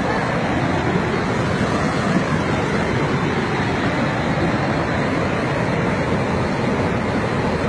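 Floodwater of a river in spate rushing steadily past, a dense, unbroken wash of water noise.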